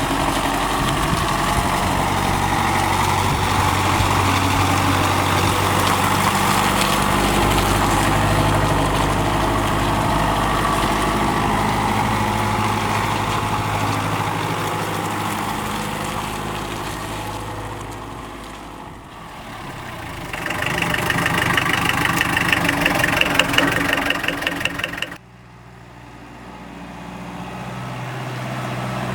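Mercedes OM 636 four-cylinder diesel engine of an Esslingen DZ 10 tug running steadily. It fades, comes back louder with a fast diesel clatter, and cuts off abruptly near the end.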